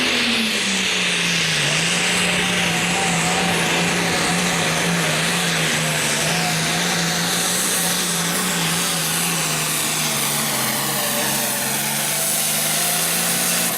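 Hot farm pulling tractor's diesel engine running hard at high revs under load down the track, its pitch holding nearly steady and sagging slightly near the end before the sound drops off sharply.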